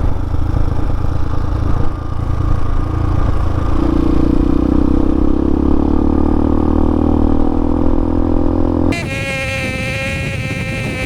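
Hawk 250 dual-sport motorcycle's single-cylinder engine running under way, with heavy wind rumble on the microphone. About nine seconds in the sound changes abruptly: the rumble drops away and the engine note comes through clearer and higher.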